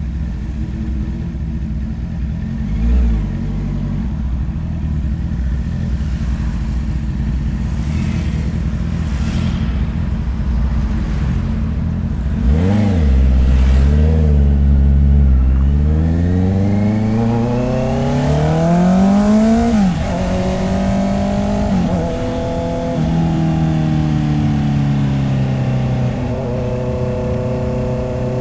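Honda CB650R's inline-four engine idling, with a short throttle blip about three seconds in and a sharper one about halfway through. The bike then pulls away: the engine note climbs steadily, drops twice in quick steps as it shifts up, and settles to a steady run.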